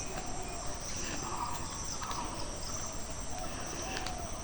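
Crickets trilling steadily in a high, continuous chirr, with short repeated lower notes every half-second or so and a low rumbling noise underneath.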